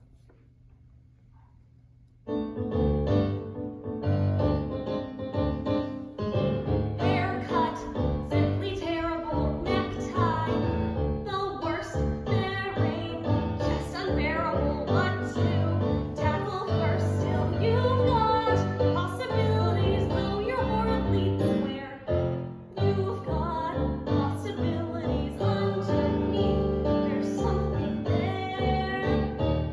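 A faint hush for about two seconds, then a piano accompaniment starts and a young woman sings a Broadway show tune over it.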